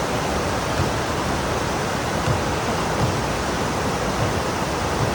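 Pouring rain, a steady, even hiss of falling water.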